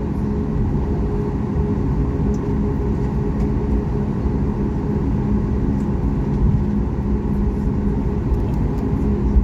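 Steady cabin noise inside a Boeing 737 MAX 8-200: an even engine and airflow drone with a constant low hum.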